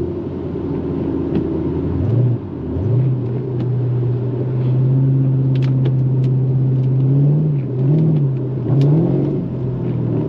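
2013 Chevrolet Camaro SS's 6.2-litre V8 running under way, heard from inside the cabin. A little after two seconds in the engine note drops and climbs again, then holds steady, and near the end the revs rise and fall a few times with the throttle.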